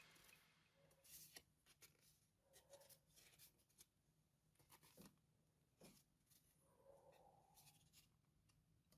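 Near silence, with a few very faint clicks.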